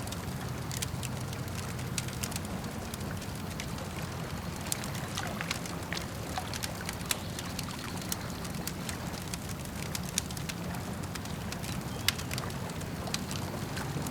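Campfire crackling, with irregular sharp pops and snaps of burning wood, the loudest about twelve seconds in. Under it runs a steady wash of lake water.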